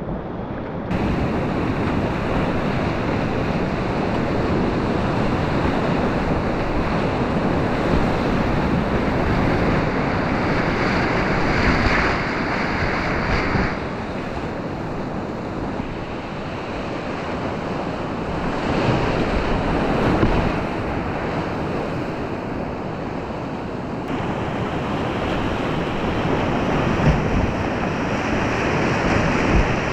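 Whitewater rapids of a mountain river rushing loudly and steadily around a kayak, easing off about halfway through and building again later on.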